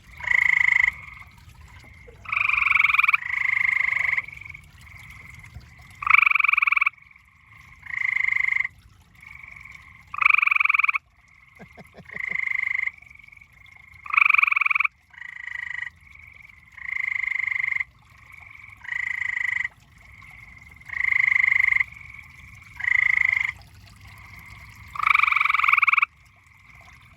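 A chorus of tree frogs calling: loud short trills, each under a second long, one after another every second or two, over a fainter steady chorus of more frogs.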